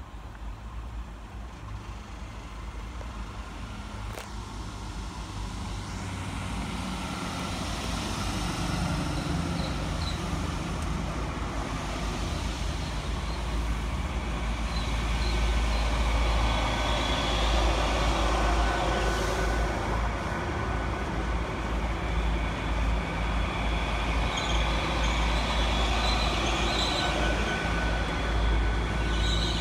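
A train approaching, growing steadily louder over the first half and then running close by at an even level, with a deep rumble and some steady humming tones. Short high squeals, typical of wheels on the rails, come and go in the second half.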